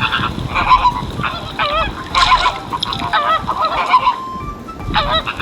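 A flock of flamingos calling: many goose-like honks overlapping, each wavering up and down in pitch.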